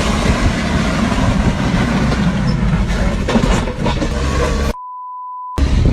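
Loud, rumbling vehicle noise with irregular buffeting. Near the end it cuts out for under a second, replaced by a single steady high beep, then resumes.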